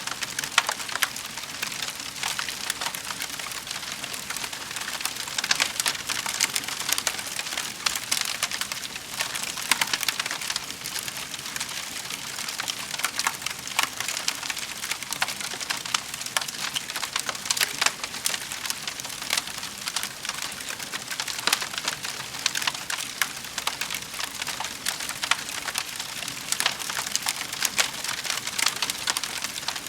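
Wood fire crackling steadily in a fireplace, with many small sharp pops and snaps over a constant hiss.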